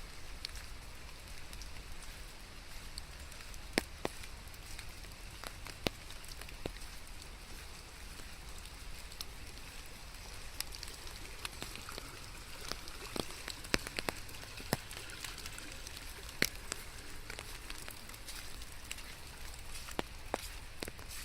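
Steady rain falling, with scattered close raindrops striking sharply and irregularly, over a low steady rumble.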